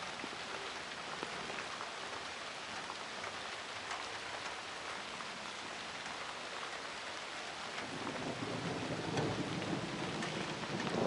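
Steady rain falling, with scattered drop ticks. About eight seconds in, a low rumble of thunder starts to build and grows louder.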